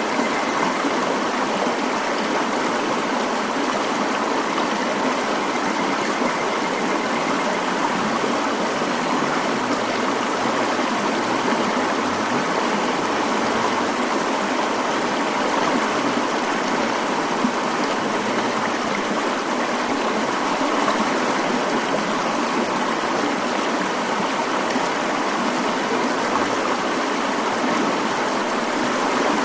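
Mountain stream water flowing, a steady, unbroken rushing.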